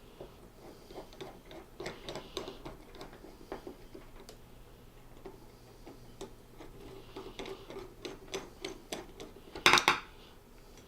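Irregular small metallic ticks and clicks of a screwdriver driving Phillips screws into a waveguide switch housing, with one louder clatter of metal parts near the end.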